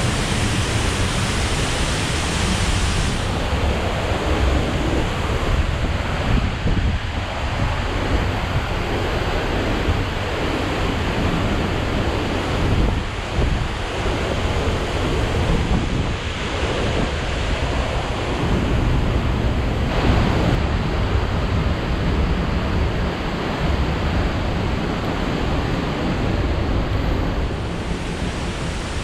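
Ozone Falls, a 110-foot waterfall running high, roaring steadily as a dense wash of falling water, with wind gusting on the microphone.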